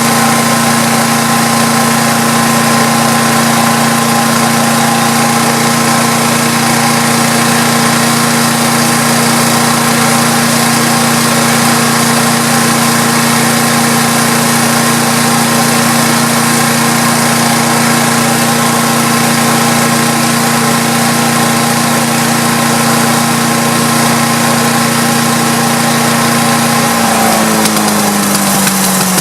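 Craftsman 5 HP chipper shredder engine running steadily at a constant speed, its carburetor bowl bolt just cleared of a clog. Its speed drops near the end.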